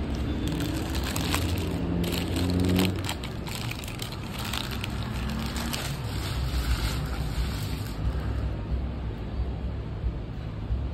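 Crunching of crispy fried chicken being bitten and chewed, a run of sharp crackles for the first six seconds or so, over a low steady rumble.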